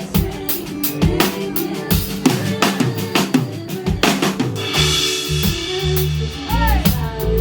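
Live band music: a drum kit keeps a steady beat of kick, snare and rimshot hits. About halfway a cymbal crash and a bass line come in.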